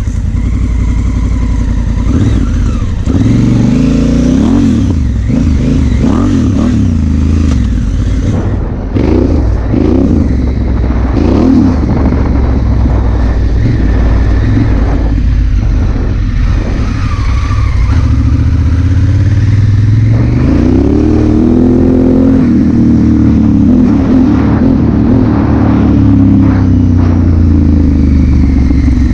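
Honda Africa Twin CRF1000L parallel-twin engine under way, its pitch rising and falling several times as the throttle opens and closes through the gears, with wind rush and some clatter.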